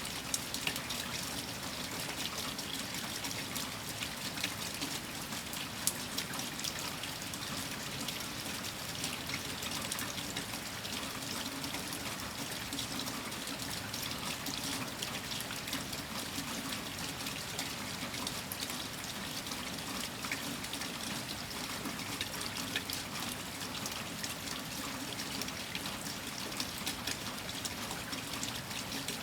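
Steady rain with many small drop ticks over a constant trickle and pour of running water.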